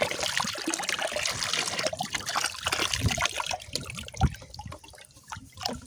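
Water splashing and trickling as small toys are moved about in it, with a couple of soft knocks, thinning out near the end.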